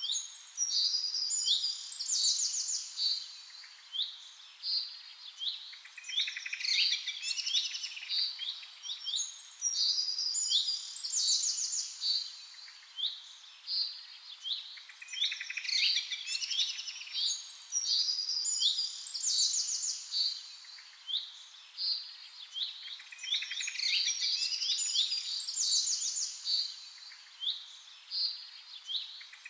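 Birdsong: quick, high chirps and trills in a sequence that seems to repeat about every eight seconds.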